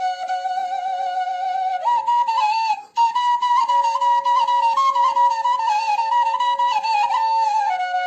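Traditional Afrin folk music: a flute-like wind instrument plays a wavering, ornamented melody over a steady held drone note. The melody steps up higher about two seconds in and comes back down near the end, with a brief break just before three seconds.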